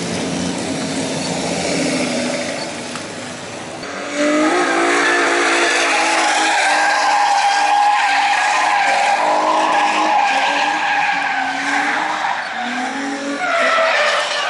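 Drift car engine revving, then about four seconds in a loud, sustained tire squeal starts as the car slides through a drift, over the engine's rising and falling revs.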